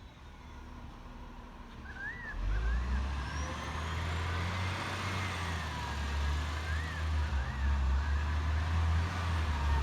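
Garbage truck's engine running, growing louder about two and a half seconds in and staying strong.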